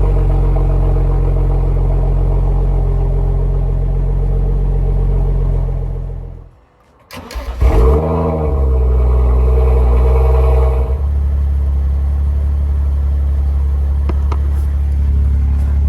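BMW M135i's turbocharged straight-six idling, then switched off about six seconds in and restarted about a second later. On restarting the revs flare up and come back down, and about eleven seconds in the idle settles into a steady, deeper note.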